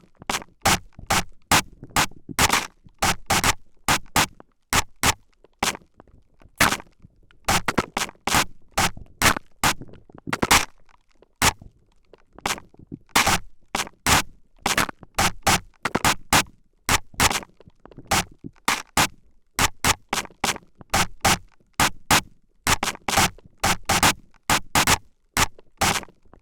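Spray bottle squirted in rapid, irregular spritzes close to the microphone, each a short sharp hiss, about three a second.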